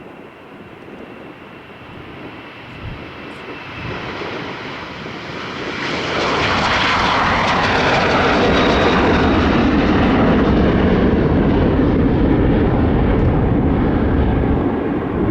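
Jet airliner's engines at takeoff thrust on the departure run, with a faint whine at first. About six seconds in the sound swells sharply into a loud, steady rumble as the plane passes and climbs out.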